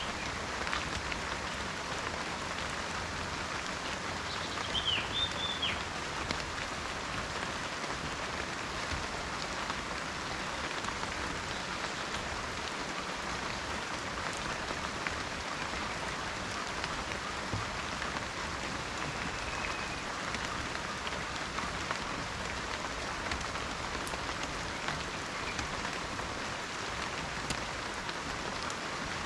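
Steady rain falling in a forest, an even hiss of drops on leaves and ground. A short bird call cuts through about five seconds in, and a fainter one comes near the middle.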